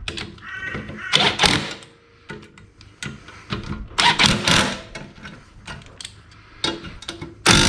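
Rattle gun (impact wrench) hammering the mower blade bolt tight in several short bursts, with clicking and rattling of the blade and tool in between.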